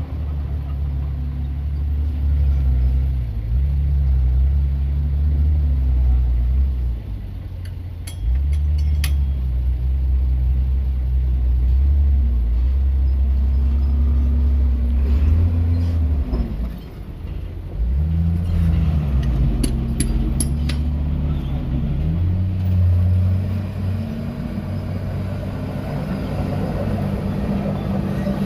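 Bulldozer's diesel engine working under changing load, its low drone rising and falling in pitch and dropping off briefly twice. Several sharp metallic clanks about a third of the way in and again past two-thirds.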